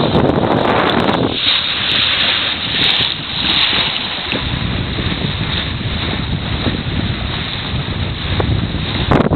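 Wind buffeting the microphone aboard a sailboat under way, over a rush of water. The gusts are strongest in the first second and again near the end.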